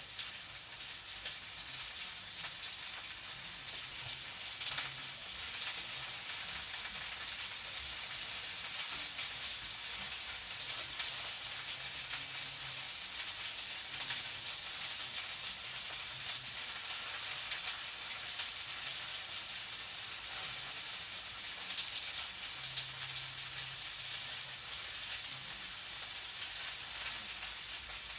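Food frying in a pan: a steady, even sizzle with fine crackling.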